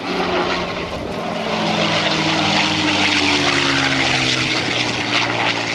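P-51 Mustang flying past with its V12 engine and propeller droning, growing louder and then dropping in pitch as it passes.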